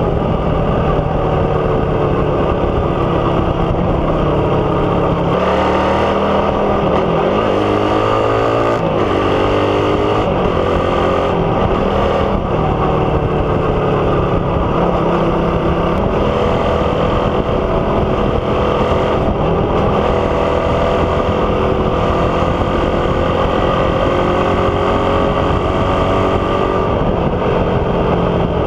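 Suzuki Raider 150's single-cylinder four-stroke engine running loud through an open aftermarket exhaust with the catalytic converter removed, big elbow header and big tip. The engine note drops and climbs several times about five to nine seconds in, then holds and rises slowly.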